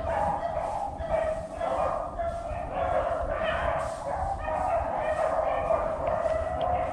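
A pack of beagles baying continuously on a rabbit's trail, several dogs' voices overlapping as they run the chase.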